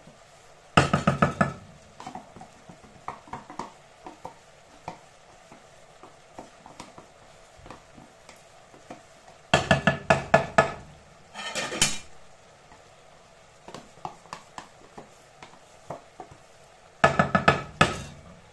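Spoon stirring in a cooking pot, clattering against its sides in three loud bursts of rapid knocks: about a second in, around the middle, and near the end. Quieter clinks and scrapes come between the bursts.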